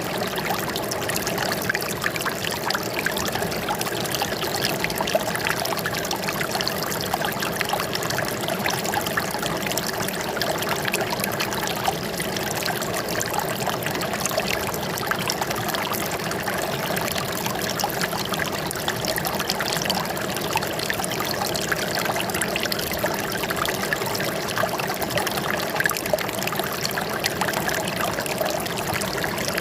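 Running water trickling and splashing steadily, like a small stream or cascade, with no pauses or changes.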